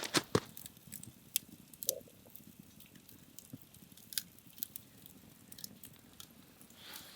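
Wood campfire crackling, with irregular sharp pops and snaps over a faint low hiss; the loudest pops come just after the start.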